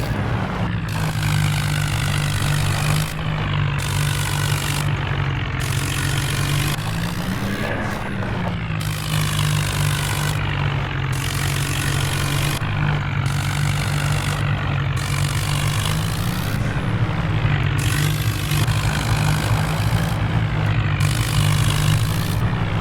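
John Deere tractor diesel engine running steadily, its pitch rising briefly twice as the engine speeds up a little.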